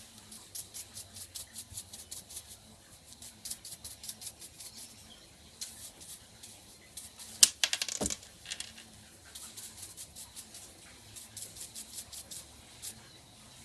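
Quick, light scratching ticks, about three or four a second, from small hand work cleaning the split nylon gear of a headlight adjuster, with a brief louder clatter about seven and a half seconds in.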